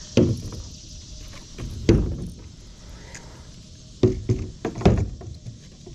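Hollow knocks and thumps on a kayak as it is handled and boarded: one near the start, one about two seconds in, then a cluster of three between four and five seconds in.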